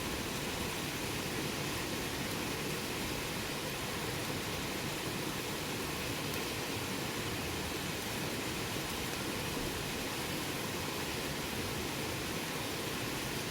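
Campfire burning steadily: an even, unbroken rushing hiss with hardly any crackles or pops.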